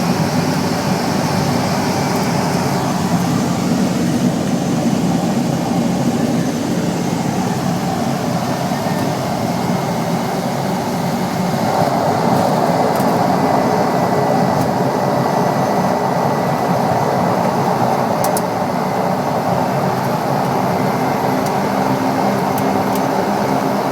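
Cessna Caravan's PT6A turboprop engine and propeller heard from inside the cabin: a steady, loud drone with a faint high tone. It grows a little louder and brighter about halfway through.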